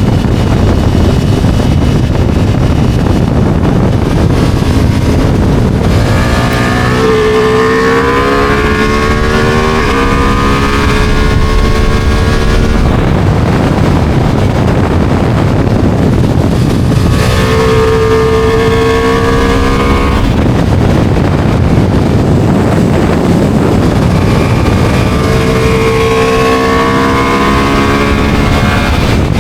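Ducati motorcycle engine accelerating hard in three bursts, its pitch climbing and stepping down at gear changes, under constant heavy wind rush on the microphone.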